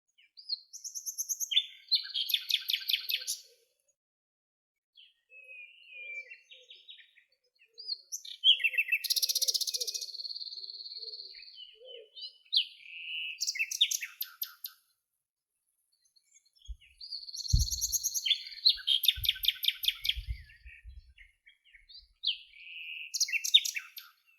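Songbirds singing in short phrases of rapid, high chirps and trills, each a second or a few seconds long, with dead-silent gaps between them. A few low thuds come in the second half.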